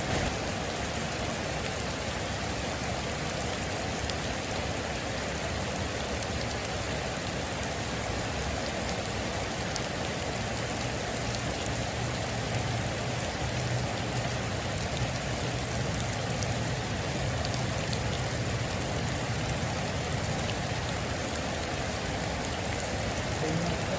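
Heavy rain drumming steadily on a metal roof, a dense even hiss with a few single drops ticking through it.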